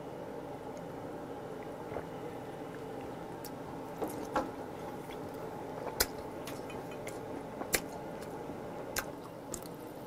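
Chewing on a piece of steamed abalone, with a few sharp clicks and light knocks of a glass and utensils on the table, over a steady low hum. The loudest knock comes about six seconds in.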